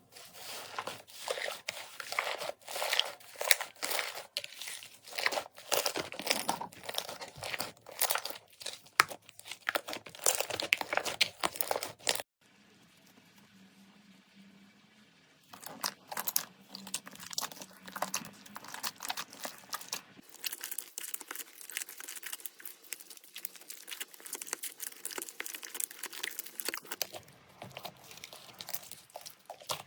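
Slime being pressed and squished by hand, giving a dense run of crackles and pops. About twelve seconds in the sound cuts off into a short quiet stretch, and a few seconds later the crackling starts again, somewhat softer.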